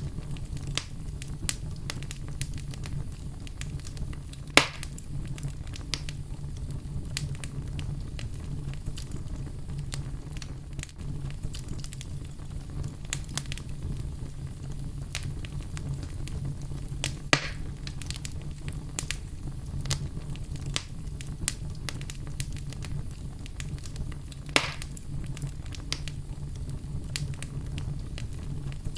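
Wood fire burning in a fireplace: a steady low rumble of flames with scattered crackles throughout and three louder pops, about 4.5 s, 17 s and 25 s in.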